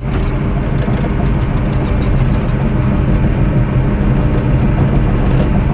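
Pickup plow truck engine running steadily with a low drone and some noise over it.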